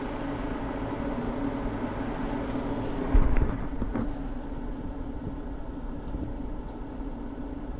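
Deutz-Fahr 6130 tractor's diesel engine idling steadily, with a single loud clunk about three seconds in.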